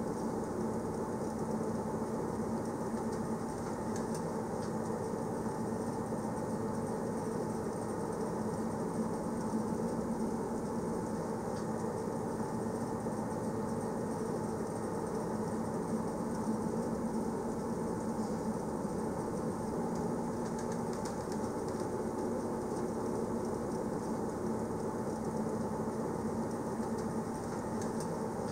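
Passenger train running steadily along the line: a continuous rumble with a low, even hum and faint light ticks.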